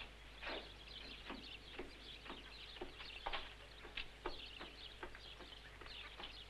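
Faint birds chirping in short, irregular calls over a steady low hum.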